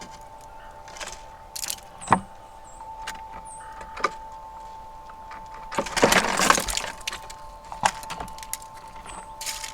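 Wind chimes ringing with long held tones, broken by sharp clinks, a louder rustling crunch about six seconds in, and a few short high bird chirps.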